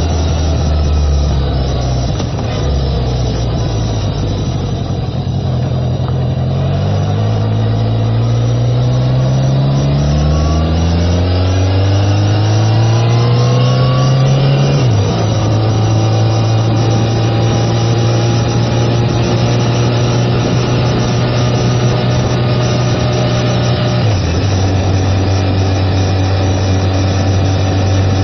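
1979 Yamaha XS1100's air-cooled inline-four engine pulling the bike along. Its pitch rises as it accelerates and drops sharply at the gear changes, about halfway through and again near the end, then holds steady at cruising speed.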